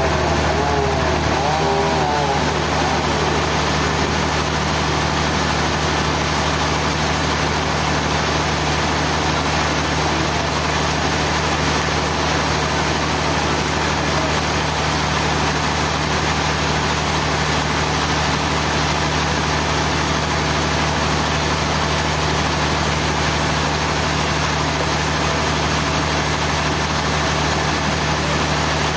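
Sawmill machinery running steadily: a constant engine hum under an even mechanical noise that does not change.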